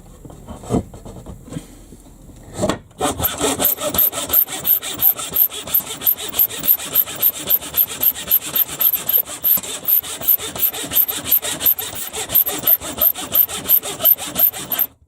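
Hand saw cutting through a wooden beam: a few slow starting strokes, then steady back-and-forth sawing at about three strokes a second that stops abruptly at the end.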